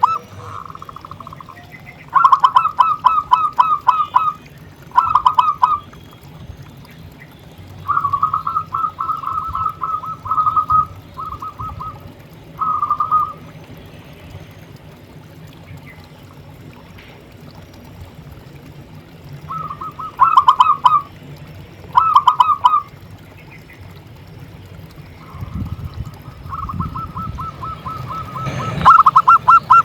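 Zebra dove (perkutut) cooing: short bouts of rapid, evenly pulsed notes, repeated about eight times with pauses between them, the longest bout near the end. A low rumble sits underneath the last few seconds.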